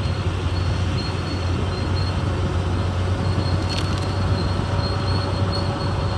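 CAT D6R XL crawler bulldozer's diesel engine running steadily, a low drone with a faint thin whine coming and going above it.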